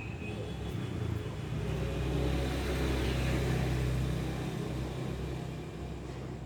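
A motor vehicle passing by: a low engine hum with road noise that swells to a peak about halfway through and then fades away.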